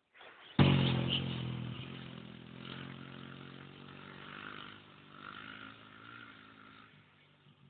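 A 250cc motorcycle engine runs, coming in suddenly and loud about half a second in, then fading steadily until it stops shortly before the end.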